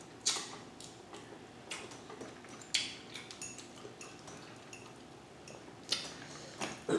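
Scattered light clicks and clinks of a fork against a plate while eating, about seven in all and spread unevenly.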